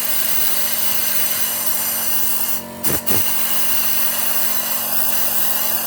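Compressed-air blowgun hissing steadily as it blows through the oil passages of a motorcycle engine crankcase, cut off briefly twice just before the middle.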